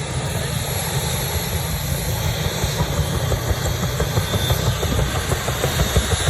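UH-1 Huey helicopter running: a fast, even beat from its two-bladed main rotor under a high, steady turbine whine, slowly getting louder.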